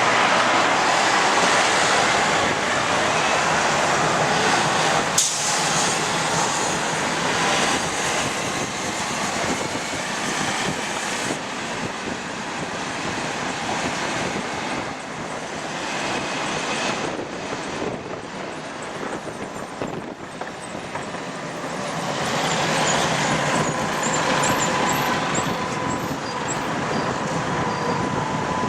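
Tram running on its rails, heard from inside the car: continuous rumble and rolling noise with a sharp click about five seconds in. A steady whine and faint high squeaks come in over the last few seconds.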